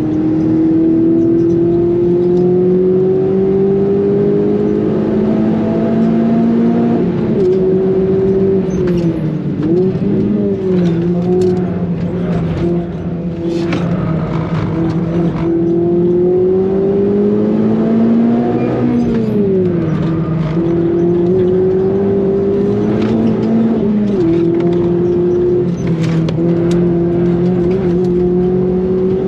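Renault Clio engine under hard acceleration on a circuit lap, its pitch climbing slowly and then dropping at gear changes. The pitch dips sharply twice, about a third and two thirds of the way through, as the car slows for corners.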